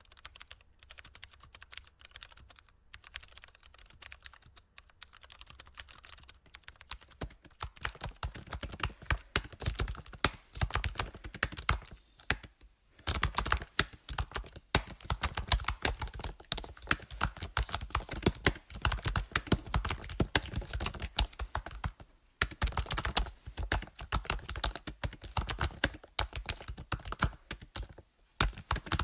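Computer keyboard typing: a fast, dense run of keystroke clicks. It is quieter for the first several seconds, then louder and heavier from about seven seconds in, with a few brief pauses between bursts.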